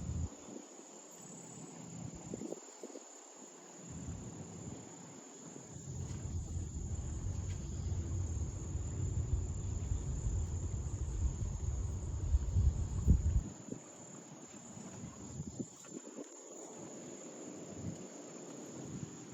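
Insect chorus: a continuous, steady high-pitched buzz. A low rumble joins it about six seconds in and cuts off suddenly a little past the middle.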